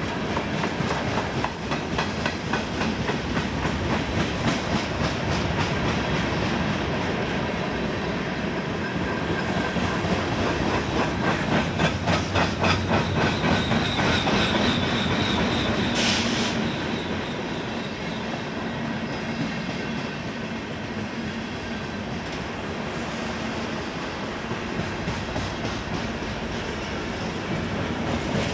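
Freight cars of a Union Pacific manifest train rolling steadily past, wheels clicking rhythmically over rail joints through the middle stretch. A faint wheel squeal comes in, followed by a brief high-pitched noise a little past halfway.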